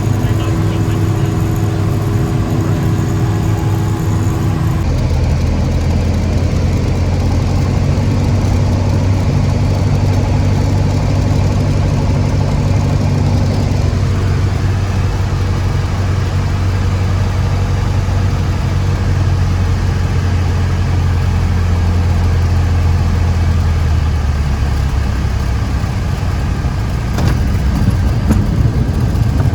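Cessna light aircraft's piston engine and propeller running steadily, its note dropping lower about three-quarters of the way through.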